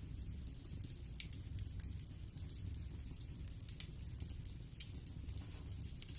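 Wood fire crackling in a fireplace: a low steady rumble of burning with frequent small sharp pops, two slightly louder ones a little before and after the middle.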